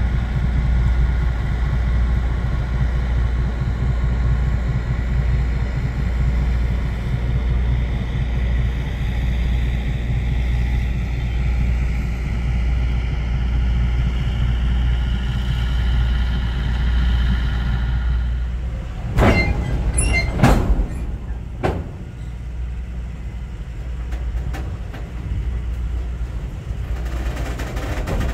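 Heavyweight passenger coaches rolling slowly past on jointed track: a steady low rumble of wheels on rail with faint high-pitched tones over it. A few sharp clanks come about two-thirds of the way through, after which the rumble is a little quieter.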